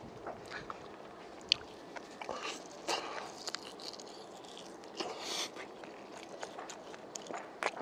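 A person biting meat off spicy braised pork ribs and chewing it, close to the microphone: scattered short smacks and clicks, the sharpest about a second and a half in.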